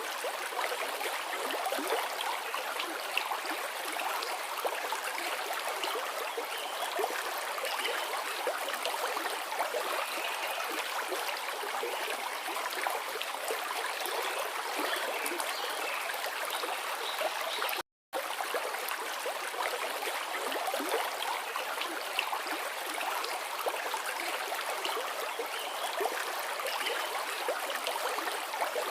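Forest river flowing over rocks: a steady rushing and splashing of water that cuts out for a split second about two-thirds of the way through.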